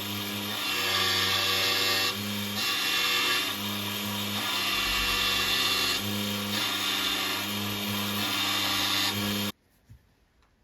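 Small power tool running with a grinding hiss that swells and falls back in passes every one to two seconds. It cuts off abruptly near the end.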